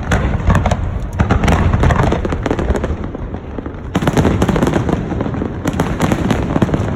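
Fireworks display: many rapid, overlapping bangs and crackles over a continuous low rumble of booms, easing off about three seconds in and building again a second later.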